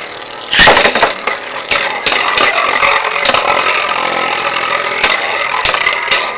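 Two Beyblade spinning tops, Lightning L-Drago and Legend Knight Virgo, launched about half a second in, then spinning against each other in a plastic stadium. Their steady whirring is broken by many sharp clicks as they collide, with a last hard clash near the end.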